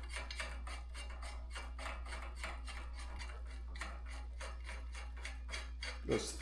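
A bicycle headset's threaded cup or locknut being turned by hand down the fork's steerer threads: a quick run of light metal clicks and scrapes, several a second, with a louder knock near the end.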